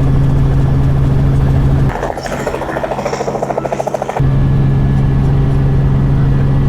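Sightseeing helicopter running: a steady low drone, broken for about two seconds in the middle by a fast rotor chop, with abrupt switches between the two.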